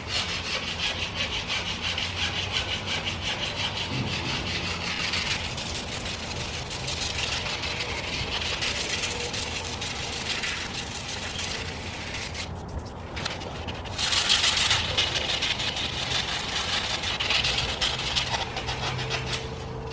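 150-grit sandpaper rubbed back and forth by hand over the curb-rashed edge of an aluminum wheel rim in fast, steady strokes, scuffing off corrosion and roughening the metal so Bondo will stick. The sanding stops briefly about two-thirds of the way through, then resumes louder.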